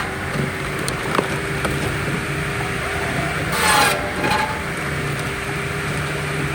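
Engine-driven firewood-processing machinery running steadily, with a brief harsh burst about three and a half seconds in.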